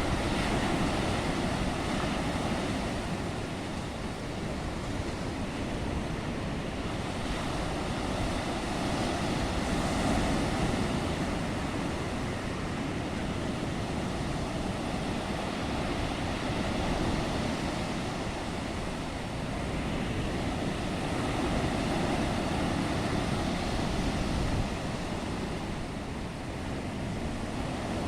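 Stormy Black Sea surf: waves breaking in a continuous wash of noise that swells and eases every few seconds.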